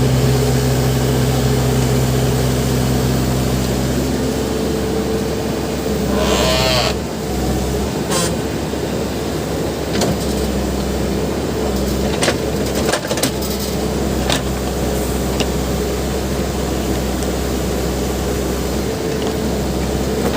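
Backhoe loader's diesel engine running under hydraulic load, with a steady pitched whine for the first few seconds and a brief squeal about six seconds in. Scattered sharp metal clanks and knocks follow through the middle.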